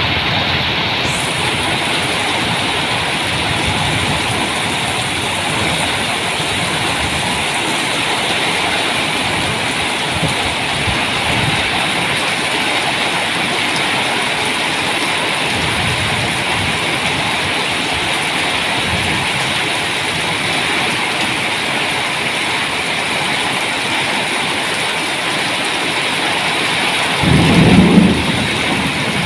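Heavy rain falling steadily in an evening storm, with a short low rumble of thunder near the end.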